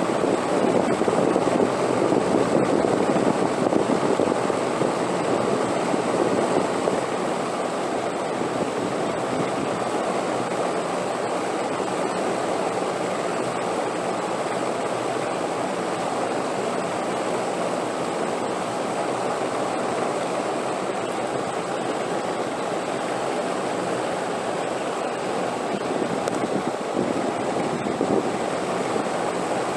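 Steady rushing wind, a little stronger for the first several seconds before settling to an even level.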